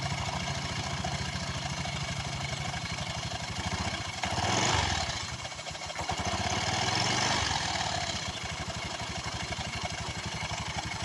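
Honda Vario scooter engine idling, revved briefly twice, about four and seven seconds in. The rough noise comes from the CVT, traced to the centrifugal clutch, which drags instead of spinning freely.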